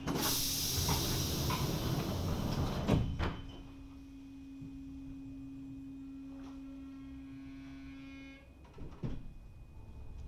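Sliding doors of a Lausanne–Ouchy rack-railway car working: a loud hiss of air ending in a heavy thud about three seconds in. After it comes a steady low hum, with a faint knock near the end.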